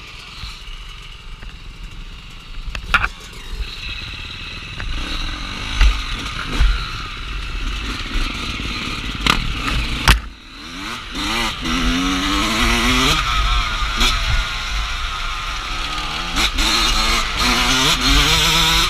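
Off-road dirt bike engine being ridden on a trail, its revs rising and falling with throttle changes and picking up strongly from about halfway through. Several sharp knocks and clatters from the bike over rough ground come through along with wind noise on the microphone.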